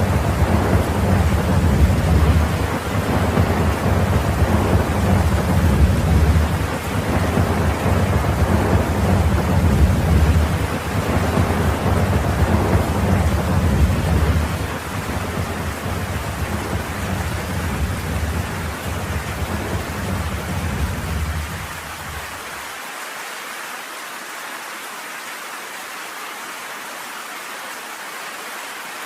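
Thunderstorm: steady heavy rain with a long, deep roll of thunder rumbling beneath it. The rumble eases in steps and stops abruptly about three-quarters of the way through, leaving only the even hiss of the rain.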